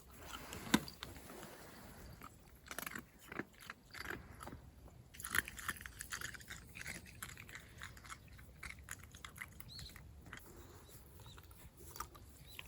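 A dog chewing on something crunchy, with irregular faint crunches and clicks.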